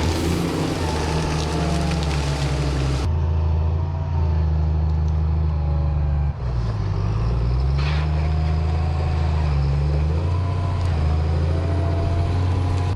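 Heavy logging machine's engine running steadily, its pitch dipping and then rising again about halfway through as it revs.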